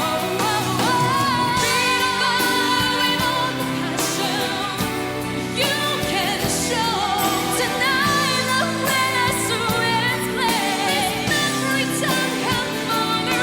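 Singing with instrumental band accompaniment: a sustained vocal melody with vibrato over steady chords.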